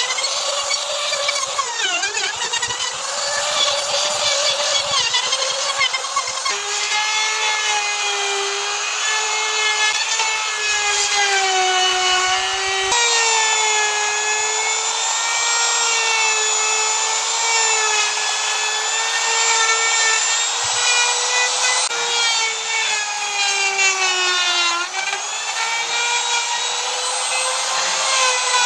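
Power tool working elm wood: a steady high motor whine with many overtones that sags and recovers in pitch as it bites into the wood, with several abrupt jumps in pitch.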